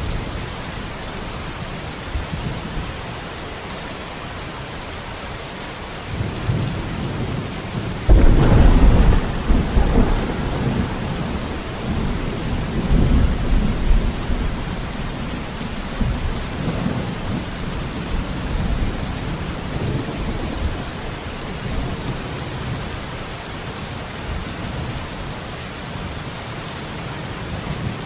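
Steady heavy rain in a forest, with thunder: a low rumble builds, a sharp loud crack comes about eight seconds in, and rolling rumbles follow, fading over the next several seconds.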